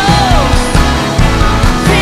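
Loud band music with a steady drum and bass beat and a gliding lead melody over it.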